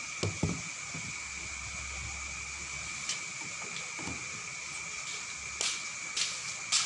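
Steady outdoor background: a constant rushing hiss with a steady high tone running under it. A few soft knocks come near the start and in the middle, and short bursts of noise near the end.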